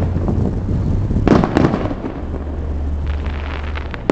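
Fireworks going off: a sudden loud burst about a second in, then a run of sharp crackles near the end, over a steady low rumble.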